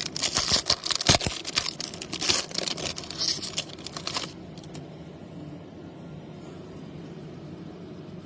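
Crinkling and rustling of a trading-card pack's foil wrapper being torn open, for about four seconds, then only a low steady background hum.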